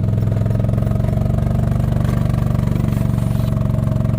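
An engine running steadily at an even idle, with a rapid, regular low pulse.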